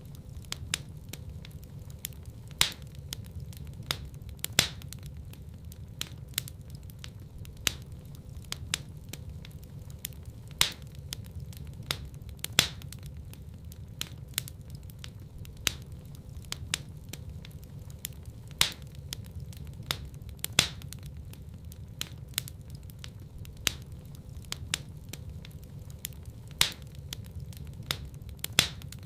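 Wood fire in a fireplace crackling: sharp, irregular pops and snaps, some much louder than others, over a steady low rumble of burning.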